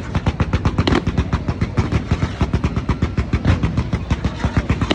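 Fireworks going off in a fast, continuous rattle of sharp bangs, several a second.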